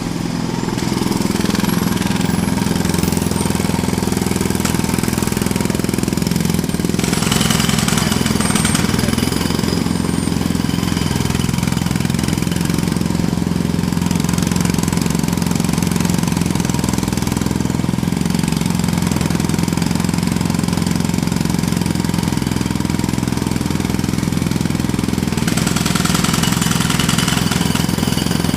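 Jackhammer hammering continuously, with a harsher, brighter stretch about seven seconds in and again near the end.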